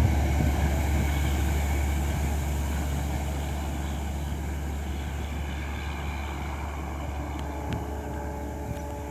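Passenger train running away into the distance, its rumble fading steadily.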